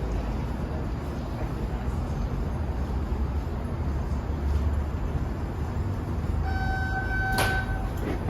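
MBTA Red Line subway train rumbling low and steady at the station. About six and a half seconds in, a steady electronic tone sounds for over a second, with a sharp clunk partway through it.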